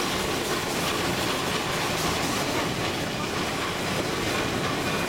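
Running noise of a narrow-gauge train pulled by a Shay geared steam locomotive: the steady rumble and clatter of wheels on the rails, heard from an open car.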